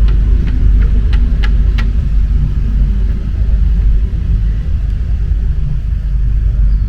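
Paris Métro MP 05 rubber-tyred train running, a loud, steady low rumble with a few sharp clicks in the first two seconds.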